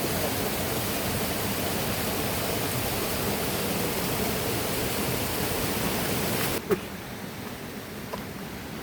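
Steady rush of flowing water from a river or waterfall, which drops suddenly to a quieter rush about two-thirds of the way through, with a short sharp click right after the drop.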